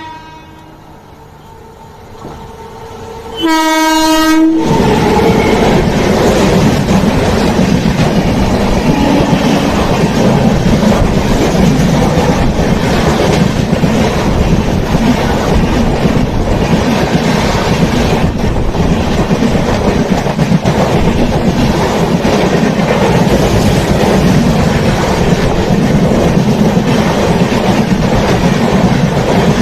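An Indian Railways express train sounds a short horn blast about three and a half seconds in, then passes close by at speed for the rest, its wheels and coaches making a loud, steady rumble with clickety-clack on the rails.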